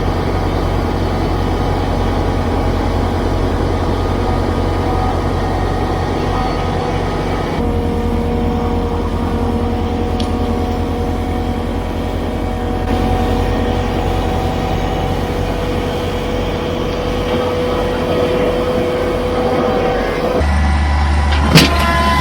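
Kubota BX compact tractor's small three-cylinder diesel engine running steadily while moving snow, with a steady whine over the engine hum. There is a sharp knock near the end.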